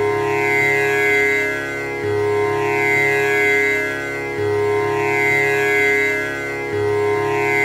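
Tanpura drone: its strings plucked one after another in an unbroken repeating cycle, about every two and a half seconds, each pluck blending into a sustained buzzing tone full of overtones.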